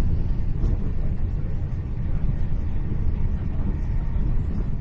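Steady low rumble of a Hitachi Class 800 intercity train in motion, heard from inside the passenger carriage.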